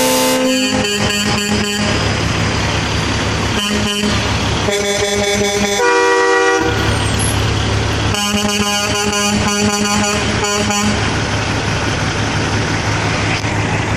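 Truck horns sounding in several long blasts, the pitch changing once about six seconds in, over a steady low rumble.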